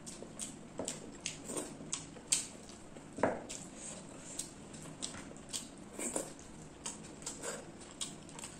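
Close-up eating sounds of chewing rice and chicken curry: a run of short wet mouth smacks and clicks a few times a second, with one louder one about three seconds in, along with fingers squishing curry into rice on a plate.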